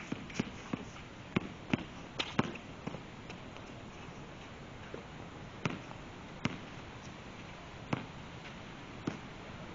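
Basketball bouncing on a court: a quick run of bounces in the first couple of seconds, then a few single bounces spaced well apart.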